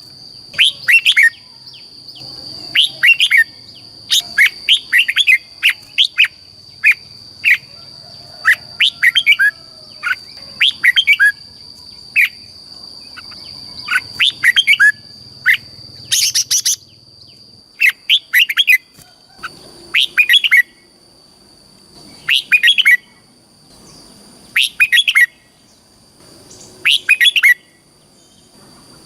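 Red-whiskered bulbul singing: short, quick phrases of bright chirping notes, repeated every one to two seconds. A steady high-pitched tone runs underneath, fading about halfway through.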